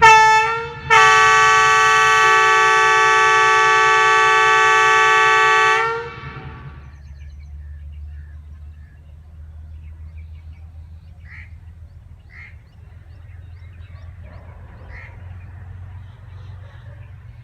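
Diesel-electric locomotive's air horn sounding a short toot and then one long steady blast of about five seconds, several tones at once, as the train departs. The horn fades out and the low rumble of the idling diesel engine is left.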